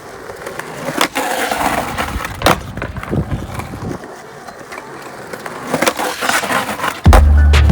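Skateboard wheels rolling on concrete, with several sharp clacks of the board hitting the ground. Loud music with a heavy bass beat cuts in suddenly near the end.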